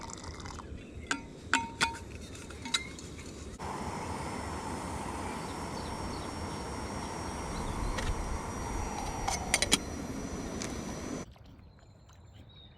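A few light clinks of metal and glass tea things being handled, then several seconds of steady rushing noise that cuts off abruptly near the end.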